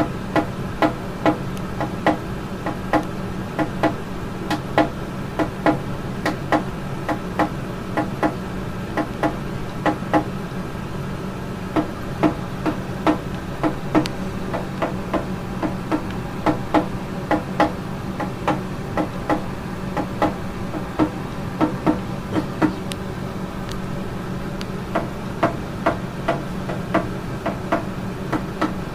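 Cockatiel pounding its beak against a hard surface: a long run of sharp knocks, about two to three a second, with a few short pauses, over a steady low hum.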